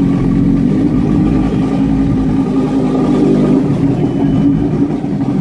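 Lamborghini Gallardo Super Trofeo race car's V10 engine idling steadily.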